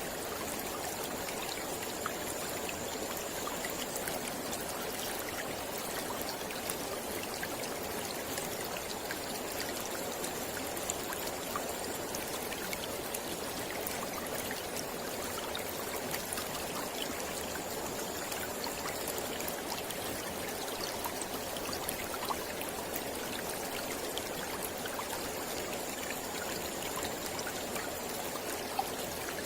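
Mountain river flowing steadily over rocks: an even rush of water with small splashes and droplet ticks throughout. A faint, thin high-pitched tone comes and goes four times, each lasting a few seconds.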